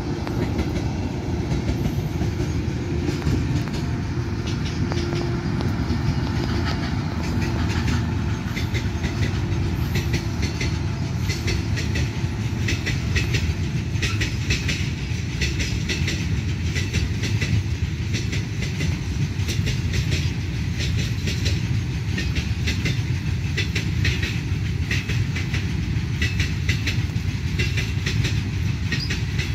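Freight train of covered wagons hauled by a WAG9 electric locomotive rolling past: a steady rumble, with rapid, irregular clicking of wheels over the rail joints.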